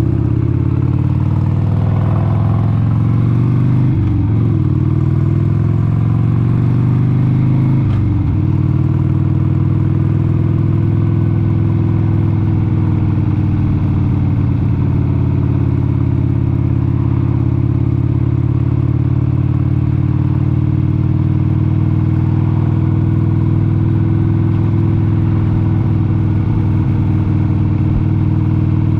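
1996 Harley-Davidson XLH883 Sportster's 883 cc Evolution V-twin under way. The engine pitch climbs and drops back twice in the first eight seconds as the bike is shifted up, then holds a steady cruise with slight swells in speed.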